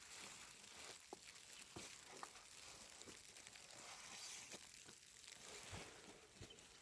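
Near silence: a faint steady hiss with a few soft, scattered clicks.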